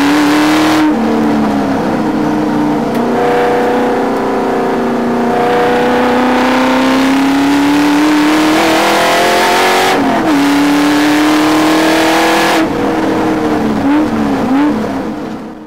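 Ford Mustang's engine heard from inside the cabin on track at high revs. The pitch climbs steadily under acceleration and drops abruptly at gear changes, about a second and ten seconds in. Near the end it lifts, with a few quick rev blips, before the sound fades out.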